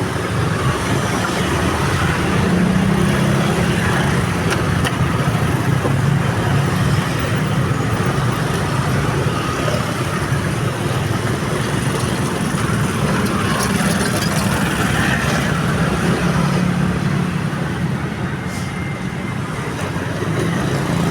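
Road traffic: vehicle engines running with a steady hum and continuous traffic noise.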